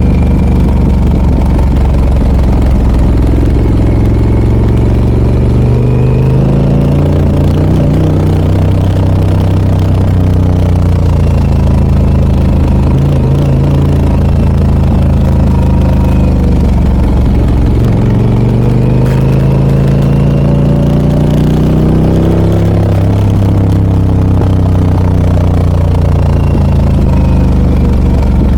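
Harley-Davidson Pan America 1250 Special's Revolution Max V-twin running through a Scorpion aftermarket exhaust while riding. The engine note climbs twice as the bike accelerates, about a quarter of the way in and again past halfway, and falls back after each climb.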